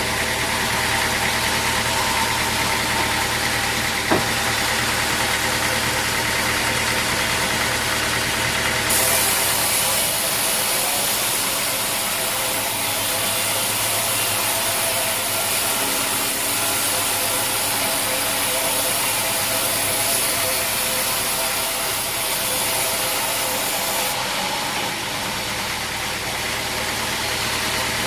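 Sawmill machinery running steadily with a droning, engine-like hum. From about a third of the way in until near the end the low hum drops away and a bright high hiss takes over, then the earlier hum returns; a single sharp click about four seconds in.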